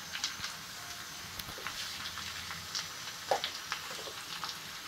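Mashed boiled potatoes frying in oil in a pan: a steady soft sizzle with a few scattered ticks and crackles.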